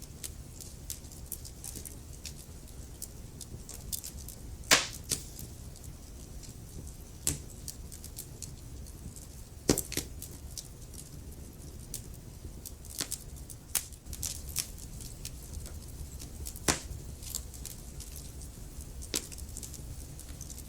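Wood fire in a fireplace crackling: irregular sharp pops and snaps, the loudest about five seconds in and again near ten seconds, over a low steady rumble.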